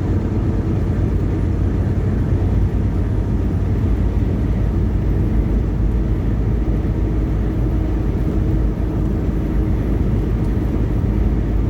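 Steady drone of a semi truck heard from inside the cab while driving: low engine hum and road noise.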